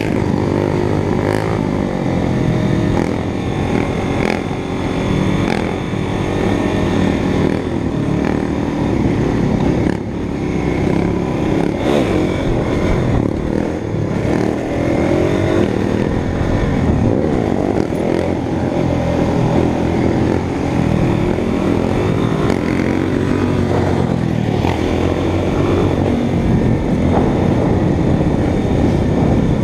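Motorcycle engine running under way, its pitch rising and falling again and again as the throttle is opened and closed.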